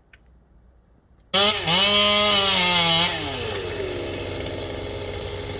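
A chainsaw's small two-stroke engine cuts in suddenly about a second in, revved high for a couple of seconds, then drops back to a steady lower idle.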